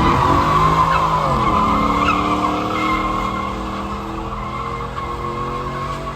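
Tyres squealing in a burnout over a high-revving engine. The squeal is loudest in the first couple of seconds and then fades away.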